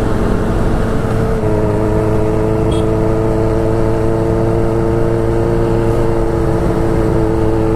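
Motorcycle engine running steadily at a constant speed, a low rumble under a steady drone that grows stronger about a second and a half in.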